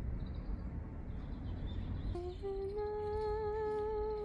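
A person humming a slow tune: about two seconds in, a note starts, steps up and is held steady for over a second, then drops to a lower note near the end. Low wind rumble on the microphone underneath.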